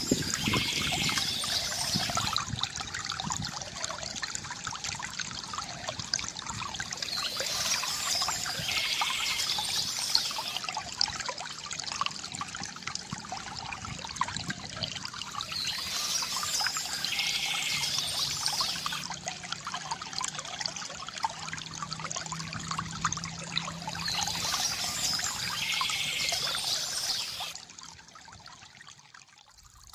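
Water trickling and pouring steadily from a bamboo fountain, swelling brighter about every eight seconds and growing quieter near the end.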